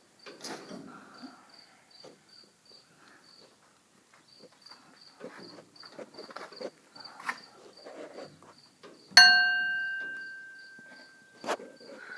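A cricket chirping steadily, a few high chirps a second, under faint knocks and handling noise. About nine seconds in, a piece of metal is struck once and rings out with a clear bell-like tone that fades over a couple of seconds, followed by a smaller knock.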